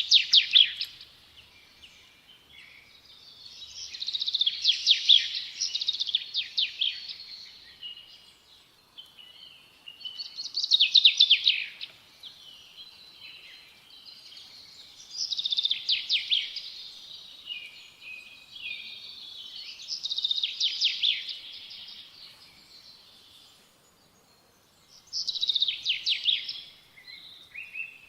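A songbird singing the same kind of short trilled phrase over and over, about one phrase every five seconds, with pauses between.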